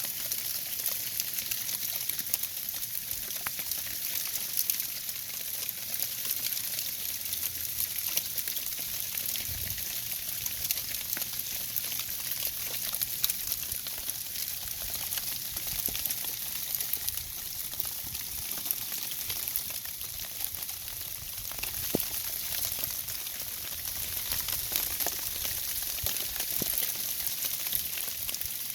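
Freezing precipitation, rain mixed with snow and ice pellets, pattering steadily on surfaces as a constant hiss of many tiny ticks.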